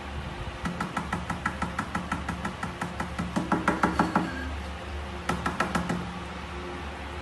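A quick run of light knocks or taps, about six a second, lasting a few seconds, then a shorter run of taps after a brief pause, over a steady low hum.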